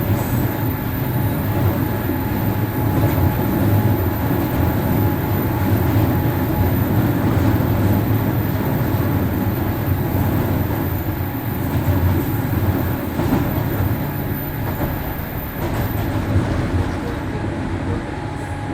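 103 series 1500 subseries electric multiple unit heard from inside the car while running between stations: a steady loud rumble of wheels on rail and running gear, with a faint steady whine above it.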